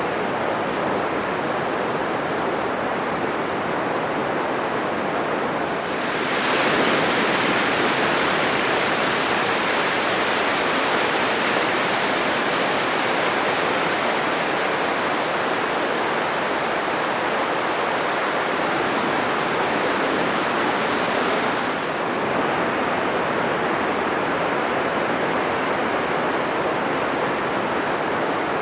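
Atlantic surf breaking on a sandy beach: a continuous rushing wash of waves. About six seconds in it turns abruptly brighter and a little louder, and it falls back just as suddenly about twenty-two seconds in.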